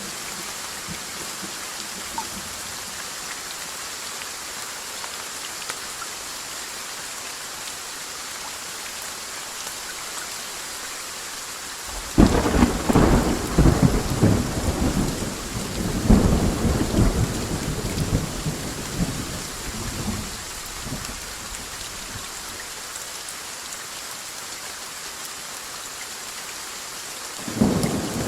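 Steady rain with thunder: a sudden loud crack of thunder about twelve seconds in, rolling on with a second surge a few seconds later before fading, and another rumble beginning near the end.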